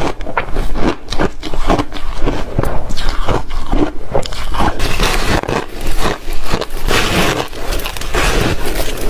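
Ice being crunched and chewed close to the microphone: dense, irregular crunches, several a second, with no pause.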